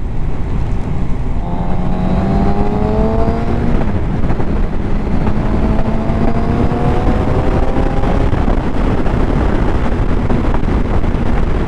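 Suzuki GSX-R750's inline-four engine pulling up through the gears: its pitch climbs, drops at a gear change about four seconds in, climbs again, then holds steady. Heavy wind noise on the microphone runs underneath.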